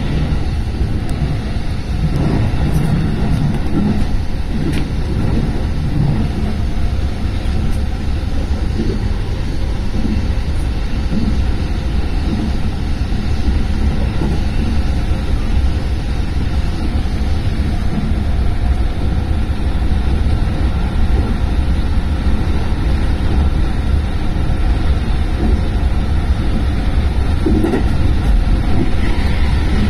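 Steady running noise of an electric commuter train heard from inside the passenger car at speed: a continuous low rumble that grows slightly louder near the end.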